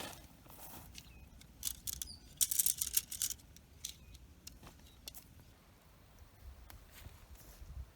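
Light clicks and crackly rustling, bunched together between about two and three and a half seconds in, with a few single ticks afterwards.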